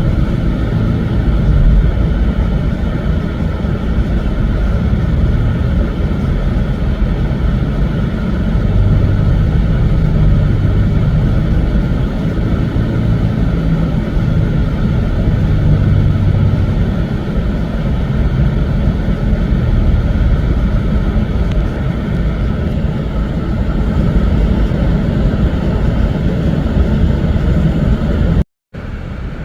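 2006 Infiniti G35 coupe's 3.5-litre V6 idling with a steady low rumble, run to burp trapped air out of the cooling system after a coolant drain and fill. Near the end it cuts out for a moment and comes back quieter.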